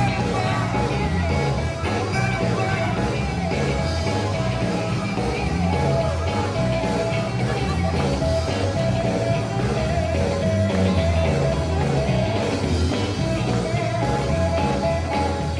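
Live sacred steel gospel band playing loud and steady, a full band sound with steel guitar lines.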